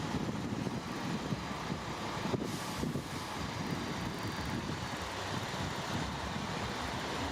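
Heavy earthmoving machinery with its diesel engine running steadily. A brief knock comes about two and a half seconds in.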